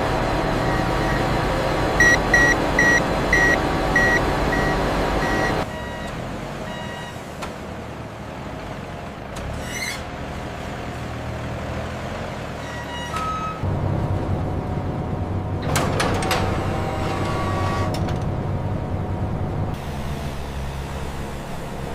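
A vehicle's reversing alarm beeping about twice a second over a running engine; the beeping stops abruptly after about five seconds. A lower engine hum follows, with a few knocks and clanks partway through.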